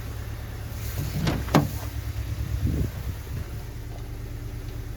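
Hyundai i20's 1.4-litre four-cylinder petrol engine idling cold with a misfire, running unevenly instead of at a constant beat. Two sharp clicks about a second and a half in.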